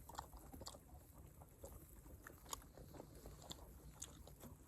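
Faint chewing and biting: people eating grilled sekuwa meat, with scattered small mouth clicks.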